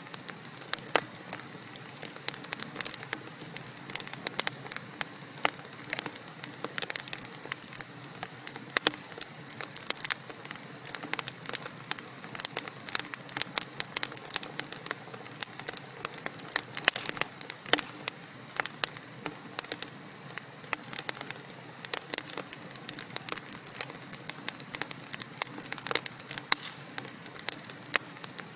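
Wood fire in a fireplace burning, with a steady hiss and many sharp, irregular crackles and pops from the burning logs.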